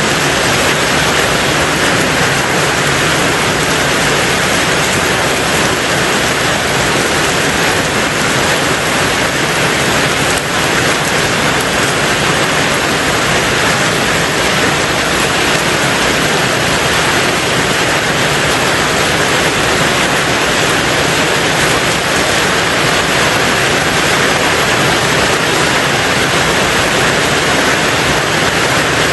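Rain falling steadily on a tin roof, a dense, even hiss with no let-up.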